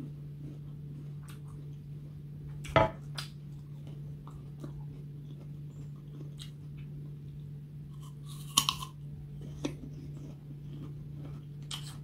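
Crunchy chewing of raw green apple at close range, with small crisp crunches throughout and two loud crisp bites, about three seconds in and again near nine seconds in. A steady low hum runs underneath.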